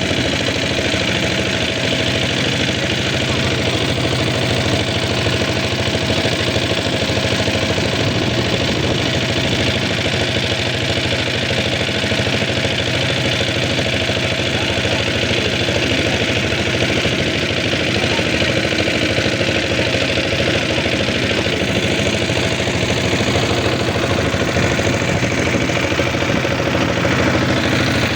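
An engine running steadily at an even speed, with a fast, regular low pulsing and no change in pace.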